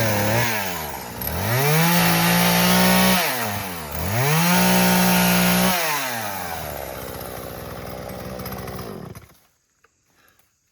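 Gasoline chainsaw running: it revs up and is held at full throttle twice for about a second each, then drops back to a lower idle and cuts off about nine seconds in.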